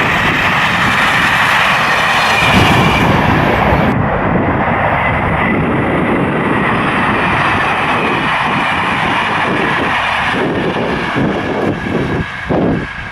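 A train passing close by at speed: a loud, steady rush of wheel and rail noise that begins to waver near the end.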